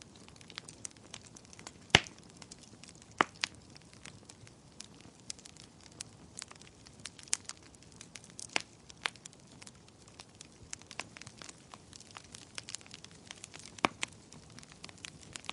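Wood fire burning in a fireplace: a low hiss under irregular crackling, with a sharp pop about two seconds in and further loud snaps a second later and near the end.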